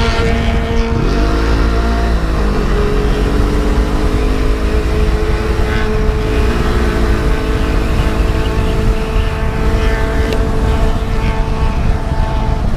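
Honda CB500F's parallel-twin engine running under way, its revs dipping and climbing back twice, over a steady low wind rumble.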